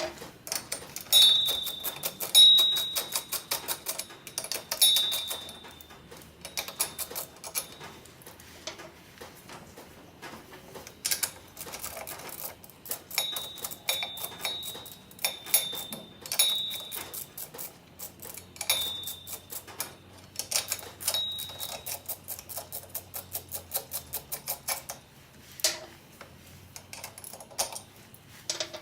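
Hand tools working on metal car parts: quick runs of sharp clicking, like a ratchet, with clinks that several times ring briefly with a high metallic tone.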